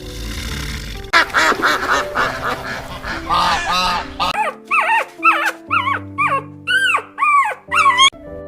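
An animal calling over background music: first a dense stretch of overlapping calls, then about ten separate short calls, each rising and falling in pitch.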